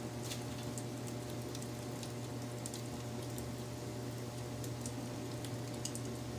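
Wood fire crackling: irregular small pops and snaps scattered every fraction of a second over a steady low hum.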